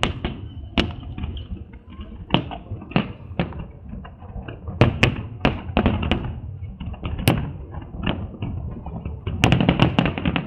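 Aerial fireworks bursting overhead, a string of irregular bangs and crackles that thickens into a rapid flurry near the end.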